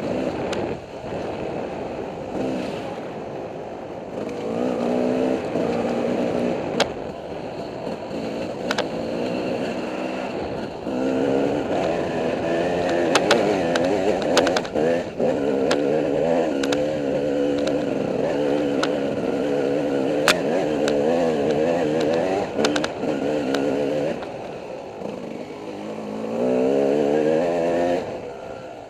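Dirt bike engine on the throttle, its pitch rising and falling as it is revved and eased off over rough trail, with a few sharp clicks along the way and a climbing rev near the end.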